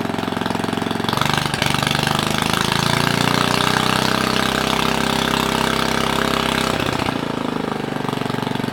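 Small Briggs & Stratton single-cylinder engine idling, revving up about a second in, holding the higher speed for several seconds, then dropping back to a slow idle near the end.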